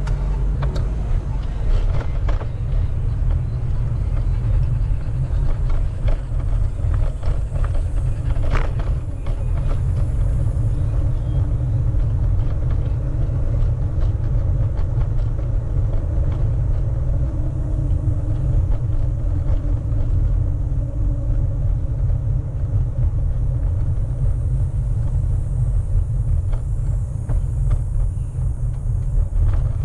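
Wind buffeting the microphone of a moving bicycle rider: a steady, loud low rumble, with faint traffic sounds underneath.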